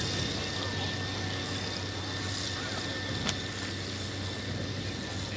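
Pulling tractor's diesel engine running steadily with a steady high whine over it, and one sharp click about three seconds in.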